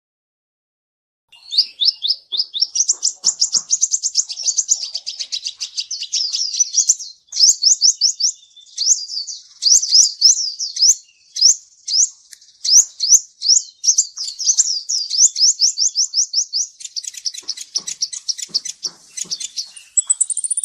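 A kolibri ninja sunbird singing. After about a second of silence, it runs a long, fast string of sharp, high sweeping chirps, which grow scratchier and busier near the end.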